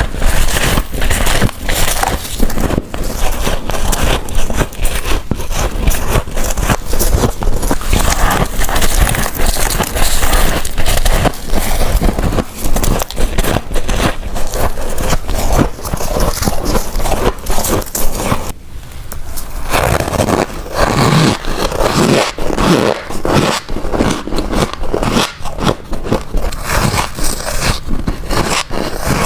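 Close-miked crunching of freezer frost being bitten and chewed, a dense run of rapid crackles and scrapes. The sound breaks off briefly a little past halfway, then the crunching resumes on firmer chunks of frost.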